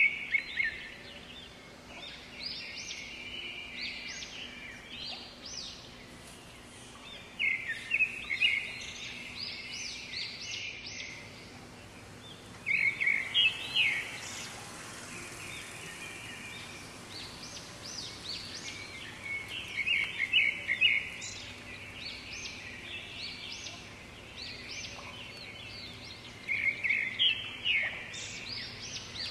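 Birds chirping in short bursts of quick high notes that come back about every six or seven seconds, over a steady outdoor background.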